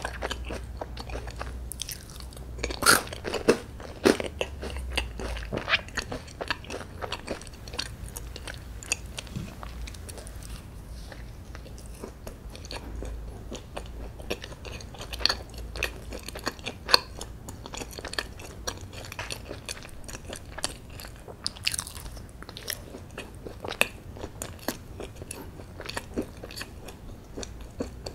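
A person chewing soft chocolate brownie and chocolate ice cream, with many small, wet mouth clicks throughout and a busier patch of chewing about three seconds in.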